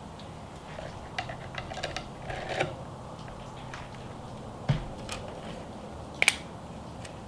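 Scattered light plastic clicks and knocks from 3DR Solo drone propellers being handled and screwed on by hand. The two sharpest knocks come about halfway through and again near the end.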